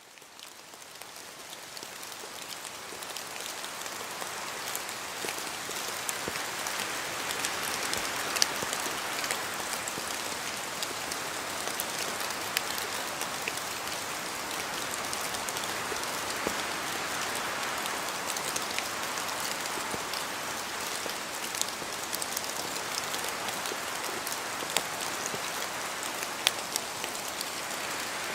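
Steady rain falling in a forest, a dense even patter with scattered louder drops landing close by. It fades in over the first few seconds.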